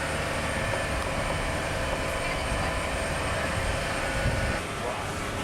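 Boat engine running steadily, with a constant hum over a noisy rush; the sound drops a little in level near the end.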